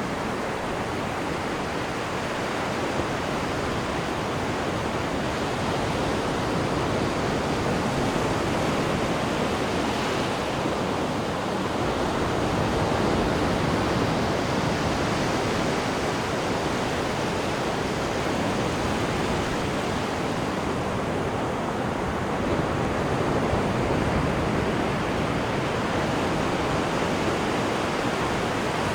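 Steady rush of sea water churning below the stern of a cruise ship, swelling and easing slightly without a break.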